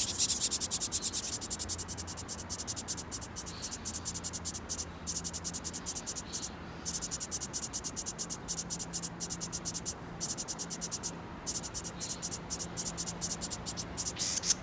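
Insects chirping: a rapid, high-pitched pulsing at about ten pulses a second, in long runs broken by short pauses, over a faint low hum.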